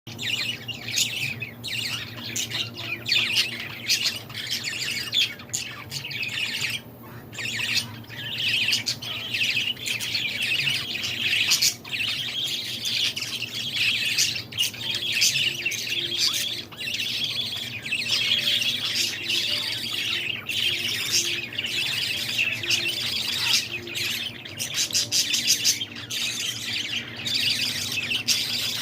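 Baby birds chirping, many high calls overlapping with no pause.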